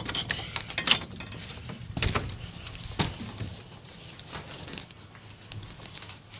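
Irregular knocks, clicks and rustles of someone moving about and handling things, with the strongest knocks about one, two and three seconds in.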